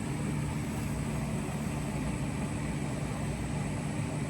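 A motor or engine running steadily with a low, unchanging hum.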